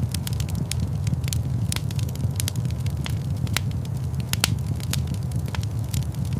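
Wood fire burning in a large stone fireplace: a steady low rumble of flames with frequent sharp crackles and pops at irregular intervals.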